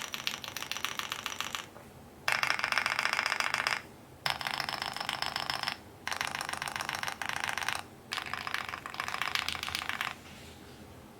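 Fast typing on an Owlabs Spring mechanical keyboard with lubed and filmed Neapolitan Ice Cream linear switches and GMK keycaps, loud and poppy. Five quick runs of rapid key clacks with short pauses between, stopping about ten seconds in.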